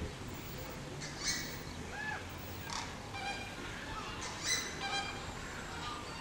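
Birds calling over a steady outdoor background: a string of short, high, pitched calls, the loudest about four and a half seconds in.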